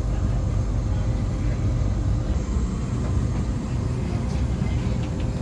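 Steady low rumble with a faint, even hum from an electric passenger train standing at the platform before departure.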